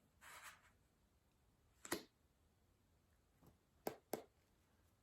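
Near silence, broken by a soft brief rustle near the start, a single click about two seconds in, and two quick clicks close together near the end.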